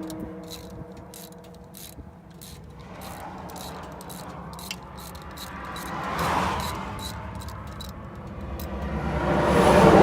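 Socket ratchet clicking in short irregular runs, loosening the thermostat-housing bolts on a semi-truck engine, over a steady low hum. A passing vehicle swells past about six seconds in and another near the end.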